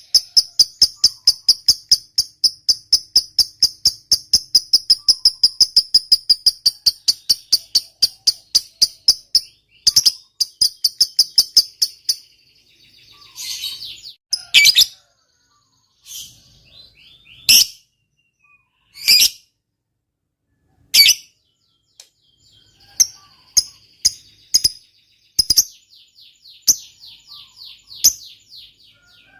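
Lovebird giving a long 'ngekek' chatter: a fast, even run of shrill chirps, about five a second, that stops about ten seconds in. After it come a short burst and then separate sharp single calls with pauses between them.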